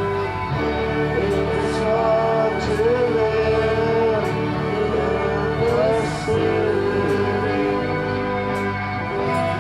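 Live rock band playing an instrumental passage, with a melody line sliding between notes over a steady backing.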